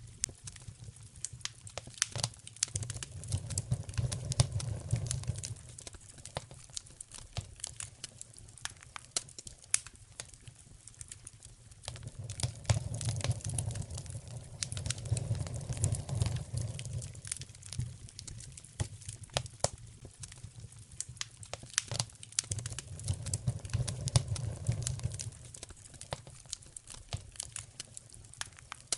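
Wood fire crackling in a fireplace, with frequent sharp pops and snaps and a low rumble that swells up and dies away three times.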